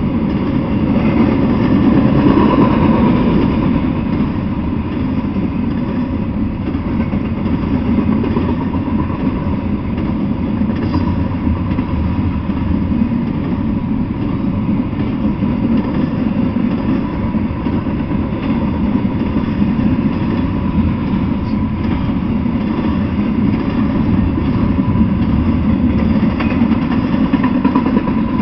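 Double-stack intermodal freight train rolling past: a steady rumble of wheels on rail, with a faint steady whine above it.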